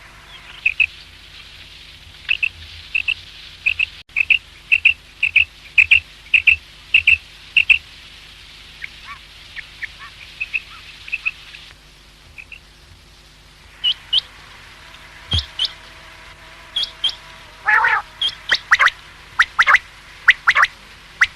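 Common quail calling: a run of short, sharp notes repeating about twice a second, then, after a quieter stretch, more loud, sharp calls near the end.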